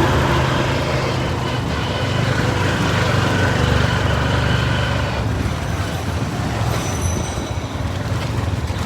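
Road vehicle noise: a motor vehicle's engine and road noise making a loud, steady low rumble.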